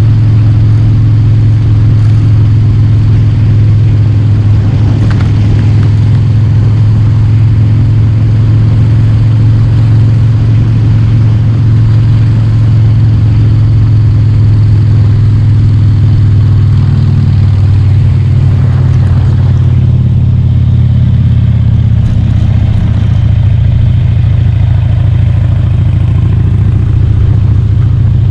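Motorcycle engine running steadily under load as the bike rides up a steep street, with a small shift in its pitch partway through.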